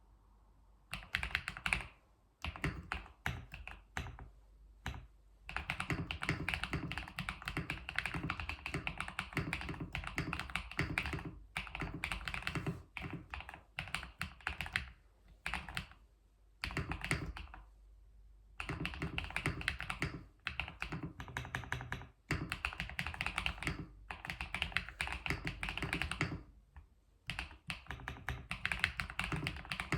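Typing on a keyboard: rapid runs of clacking keystrokes starting about a second in, broken every few seconds by short pauses.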